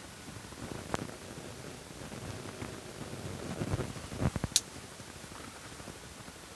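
Bonsai scissors snipping conifer twigs, with foliage rustling as the branches are handled: one sharp snip about a second in, then a few quick snips around four seconds in, the last one the loudest.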